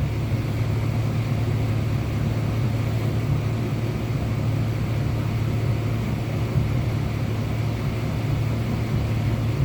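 Steady low mechanical hum, unchanging throughout, with a band of noise above it.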